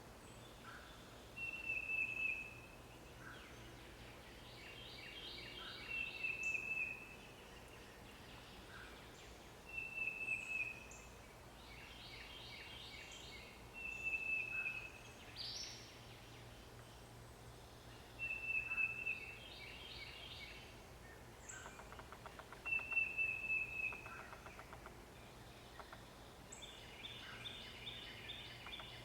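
A songbird singing the same short phrase about every four seconds, seven times: a thin, high whistled note followed by a quick jumble of chirping notes. A faint steady low hum lies underneath.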